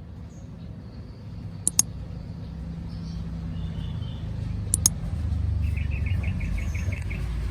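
A steady low rumble like a vehicle engine or traffic, growing louder in the second half. Two quick pairs of sharp clicks sound over it, and near the end a rapid chirping trill like a bird or insect.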